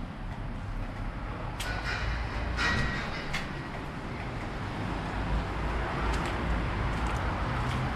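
Passing vehicle noise: a steady low rumble with a few sharp clicks and a brief high squeal about two and a half seconds in.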